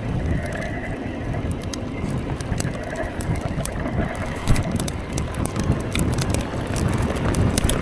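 Mountain bike riding over a wet, rocky trail: steady rumble of tyres and wind on the microphone, with many sharp ticks and rattles throughout.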